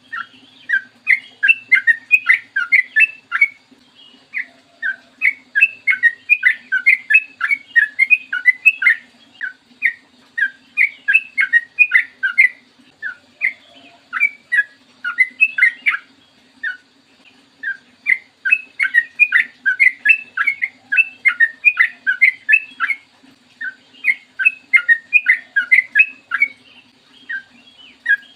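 Yellow-vented bulbul (trucukan) singing: long, fast runs of short bubbling notes, broken by brief pauses every few seconds. A faint steady hum lies under the song.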